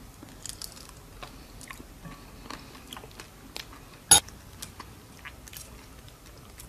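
Close-miked eating of Cajun garlic-butter shrimp: scattered wet clicks and crunches, with one sharp, loud crack about four seconds in.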